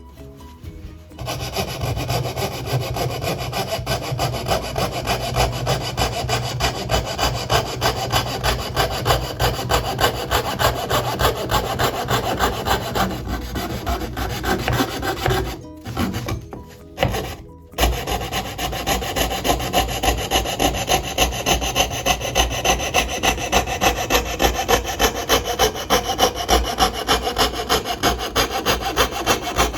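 A hand tool rasping back and forth across wood in quick, even strokes, about two to three a second, with two brief pauses a little past halfway: small wooden model parts being shaped by hand.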